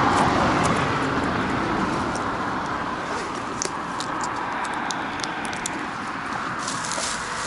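Road traffic noise: a passing vehicle, loudest at the start and slowly fading, with scattered light clicks and rustles over it.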